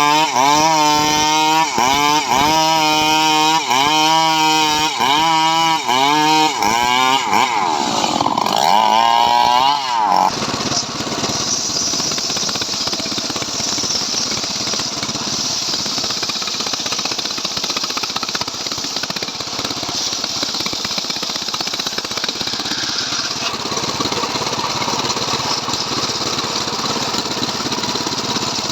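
Two-stroke Stihl MS 381 chainsaw engine revving up and falling back about once a second for the first ten seconds. It then switches abruptly to a steadier, rougher running for the rest.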